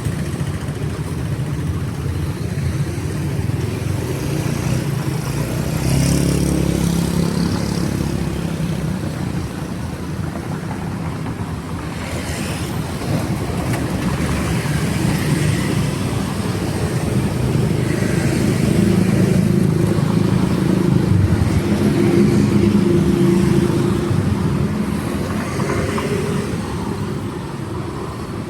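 Street traffic: cars and motorcycles running past, a steady low engine rumble that swells as vehicles draw near, once about six seconds in and again for several seconds past the middle.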